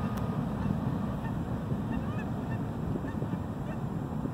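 CN freight train passing, a steady low rumble, with short calls from distant birds repeating over it.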